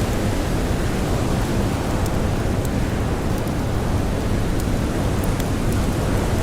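Steady rush of storm wind with blowing snow, strongest in the low end, with a few small sharp crackles from a wood fire scattered through.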